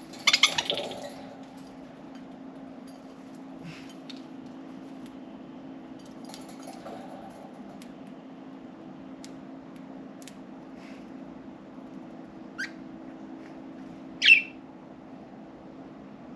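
Pet budgerigars calling: a short burst of harsh chatter about half a second in, then two quick rising chirps near the end, the second louder.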